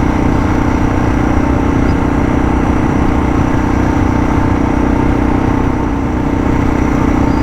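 Suzuki DR650's single-cylinder four-stroke engine running at a steady cruising speed on a gravel road, under a constant rush of wind and road noise.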